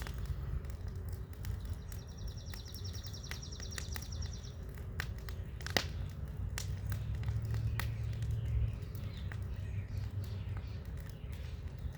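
Wood bonfire crackling, with irregular sharp pops over a low steady rumble; one pop about six seconds in stands out as the loudest. A bird gives a rapid trill for about two seconds near the start.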